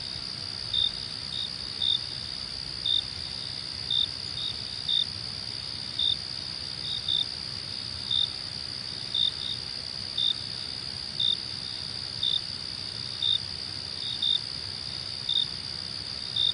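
Crickets chirping: a steady high-pitched trill under louder short chirps about once a second, some coming in quick pairs.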